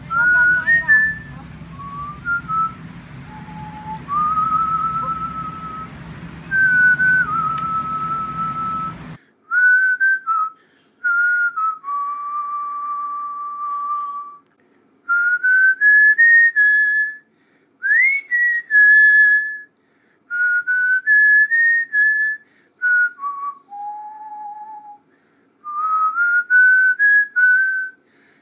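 A person whistling a slow tune, with long held notes and short slides between them. A steady background hum drops out suddenly about nine seconds in.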